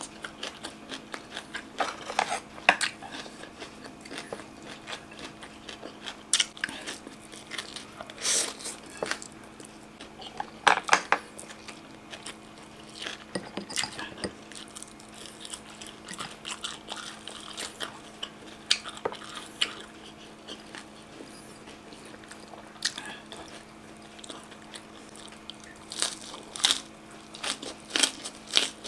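Close-miked eating of grilled chicken tails and crisp raw greens: wet chewing with sharp, crunchy bites scattered throughout, the loudest cluster near the middle. A faint steady hum runs underneath.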